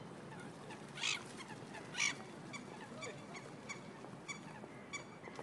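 Water birds calling: two short, harsh calls about one and two seconds in, then a run of faint, short, high notes about twice a second.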